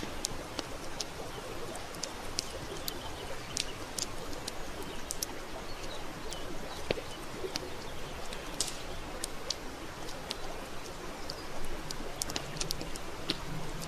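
Wood fire burning, with irregular sharp crackles and pops several times a second over a steady hiss.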